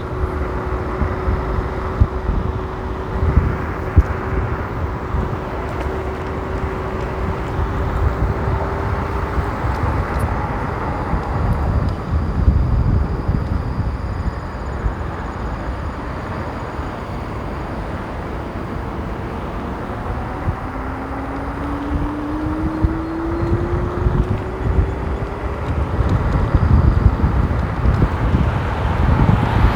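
Riding an electric kick scooter on a wet road: a steady low rumble of wind on the microphone and tyre noise. A thin whine holds steady for the first nine seconds or so, and another whine rises in pitch from about twenty to twenty-five seconds in.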